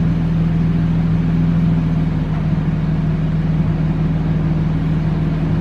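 Infiniti G37 sedan's VQ37 V6 idling warm with its mufflers removed (a muffler delete on test pipes): a loud, steady exhaust note that holds one pitch without revving.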